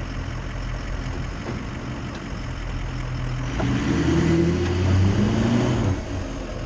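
Ford F-250's Power Stroke diesel V8 running at low revs, then revving harder under load for about two and a half seconds from about halfway in before dropping back, as the truck works over rocks.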